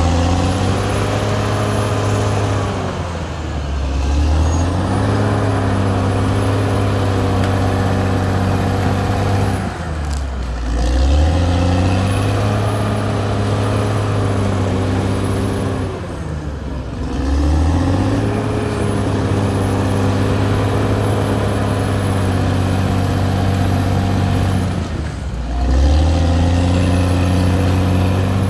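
Caterpillar D6R XL bulldozer's diesel engine running under load. Its pitch dips and climbs back several times, about every six to nine seconds.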